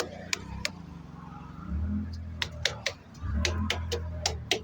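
Sharp taps and clicks in small groups of two or three, over a low steady engine hum that swells twice.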